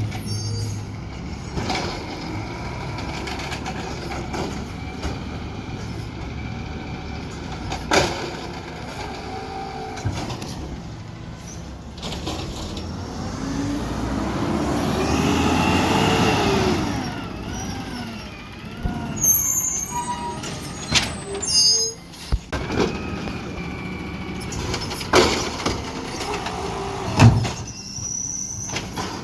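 Garbage truck running steadily, with sharp bangs and knocks along the way. About halfway through, the engine swells to its loudest with a rise and fall in pitch.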